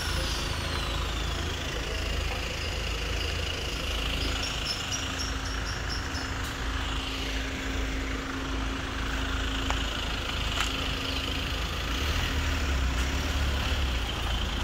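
Steady low rumble of vehicle engines idling amid street noise, with a steady hum through the middle and a quick run of high chirps about four seconds in.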